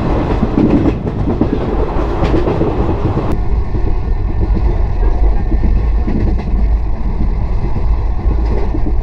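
A passenger coach running at speed, heard from its open doorway: a steady rumble and rattle of the wheels on the rails. About three seconds in the sound turns duller, with the higher rattle dropping back under a deeper rumble.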